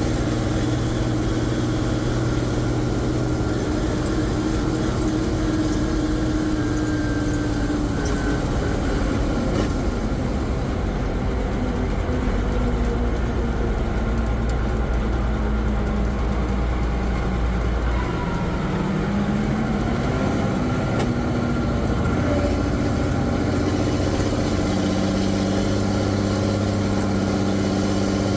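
M35A2 deuce and a half's multifuel turbo-diesel engine running steadily, its pitch slowly falling over the first ten seconds, then climbing again near the two-thirds mark and holding.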